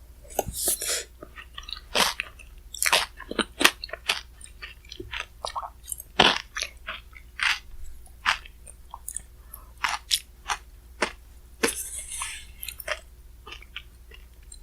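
Close-miked eating sounds: chewing and crunching mouthfuls of shaved-ice bingsu with chocolate-chip cookie pieces, heard as many sharp, irregular crunches and mouth clicks.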